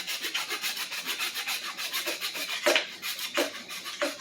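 Hand saw cutting through a hard hickory stick: quick, even back-and-forth strokes, about six a second, with a few heavier strokes in the second half.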